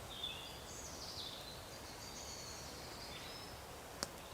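A small bird singing faintly in high, thin warbling phrases over a quiet woodland background, with one sharp click near the end.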